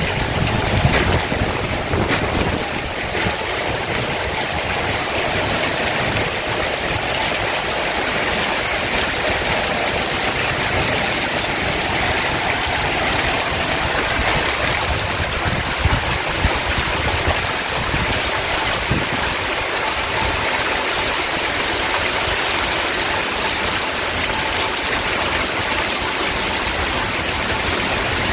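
Heavy rain pouring down steadily in a summer storm, with some low gusts of wind in the first couple of seconds.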